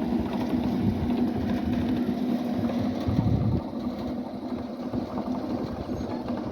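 Old black stationary diesel engine running steadily, with a rapid low pulsing and a steady hum, a little quieter about halfway through.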